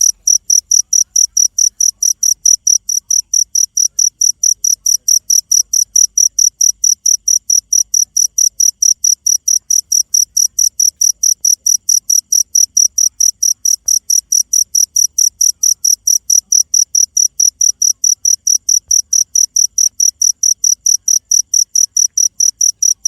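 Cricket chirping steadily: one high-pitched chirp repeated evenly, nearly four times a second, without a break.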